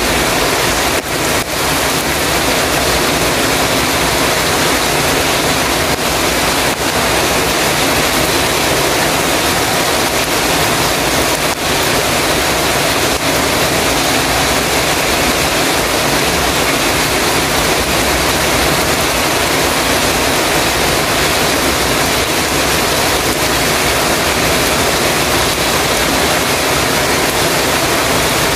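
Heavy rain falling on a metal roof: a dense, steady hiss of rain with a few sharper drop ticks.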